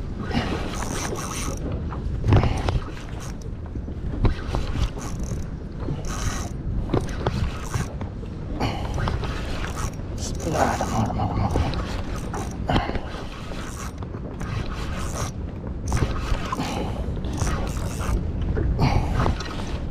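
Fishing reel being cranked in, its gears and pawl ticking and clicking unevenly, over a steady low rumble of wind and water. This is a hooked fish being reeled toward the kayak.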